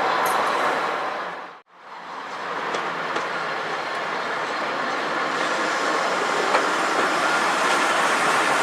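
A train running on the line, a steady running noise with a few faint clicks of wheels over the rail joints. The sound cuts out sharply for a moment about one and a half seconds in, then returns.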